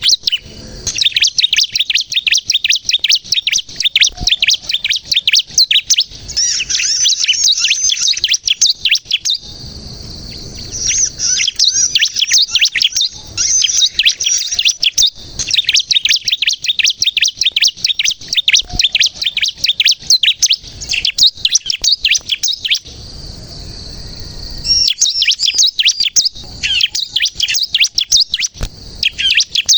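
Bar-winged prinia (ciblek kristal) singing nonstop: long runs of rapid, high-pitched chirping notes, with a short pause about ten seconds in and another about two-thirds of the way through.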